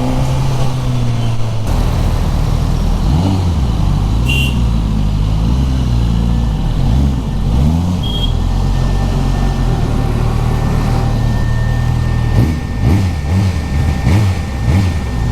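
Suzuki Katana's K5-derived 999 cc inline-four engine running under way, its pitch rising and falling several times as it is revved and shifted through the gears. A thin steady high tone runs through the second half.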